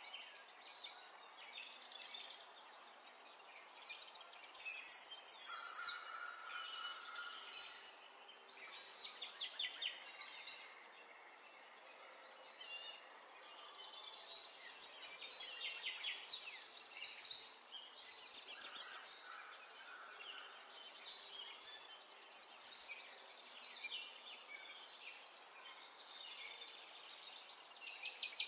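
Small birds singing: bursts of rapid trilled chirps lasting one to several seconds, separated by short pauses, with a few short steady whistled notes.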